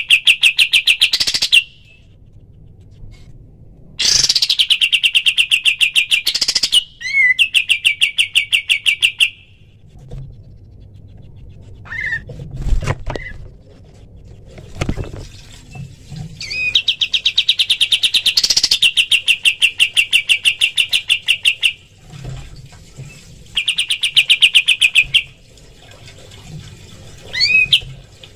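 A kapas tembak bird singing in rapid rattling trills, fast runs of repeated notes of a few seconds each (the bursts known as 'tembakan'), separated by pauses with a few short chirps.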